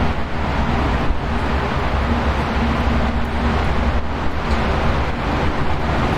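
Steady wind, a constant low rumbling rush with faint whistling tones held underneath.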